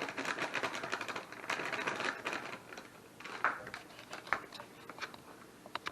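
Quick crackly rustling and tapping from the plaster powder and its bag being handled. It is dense for about three seconds, then thins to a few scattered clicks.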